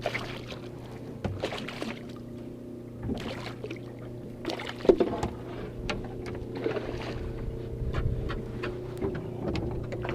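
Boat's engine running at idle, a steady hum, with short irregular noises over it.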